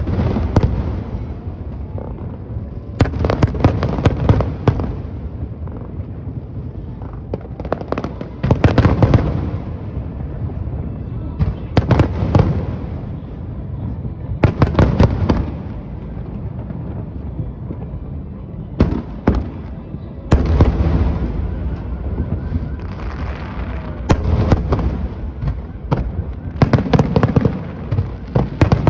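Aerial fireworks going off in volleys every few seconds, each a cluster of sharp cracks over deep booms, with a low rumble carrying on between volleys.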